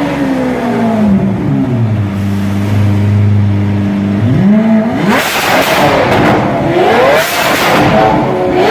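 Lamborghini Aventador LP700's V12 through a Fi Exhaust: the revs fall away to a steady, deep idle, then about four seconds in it is revved hard and blipped up and down several times, loud and harsh.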